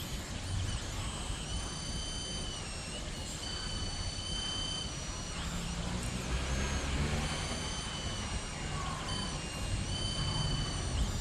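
Stepper motors of a mini CNC machine whining as the axes move, a high tone that steps up and down in pitch with each change of speed and breaks off briefly between moves, over a low rumble.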